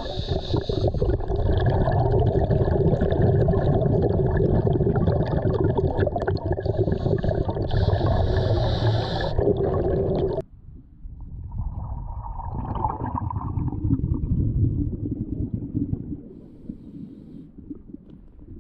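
Underwater sound on a scuba dive: a dense gurgling rumble of water and bubbles with a steady hum, which cuts off abruptly about ten seconds in to a quieter low rumble.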